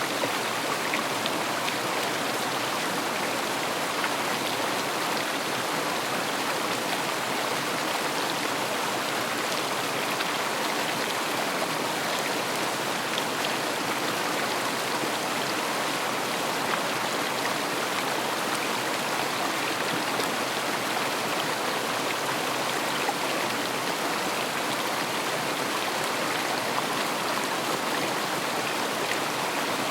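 River water flowing and rushing over stones, a steady rush with small splashes and trickles throughout.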